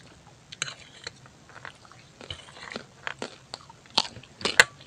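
A person chewing and biting food close to the microphone: irregular wet mouth clicks and small crunches, with a few sharper, louder clicks near the end.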